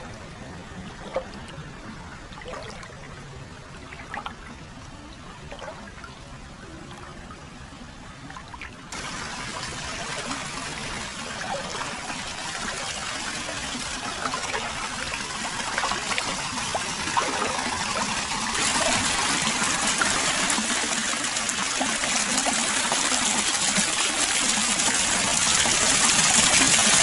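Hot-spring water flowing and trickling into an open-air foot bath: a steady splashing that steps up louder about a third of the way in and again past the middle, then cuts off at the end.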